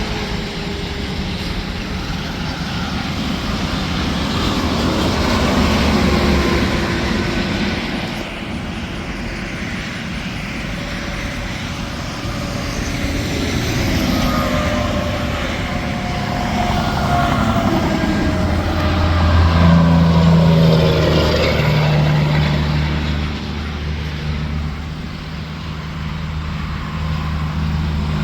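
Interstate highway traffic: vehicles, tractor-trailers among them, pass one after another, the tyre and engine noise swelling and fading with each pass. From about two-thirds through, a low steady engine drone comes in.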